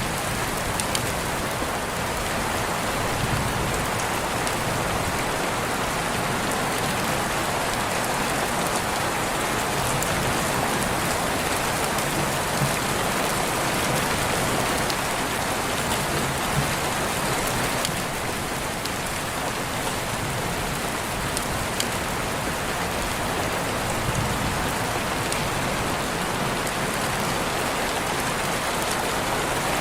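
Steady rain falling on forest and surfaces, an even hiss with faint scattered drops.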